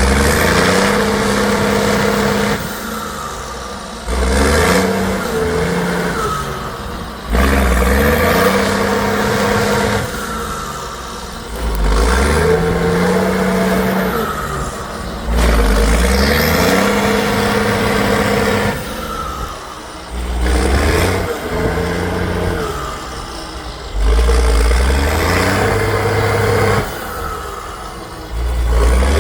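Trial truck's engine revving hard in repeated surges, about one every four seconds; each starts suddenly, climbs in pitch, then drops back.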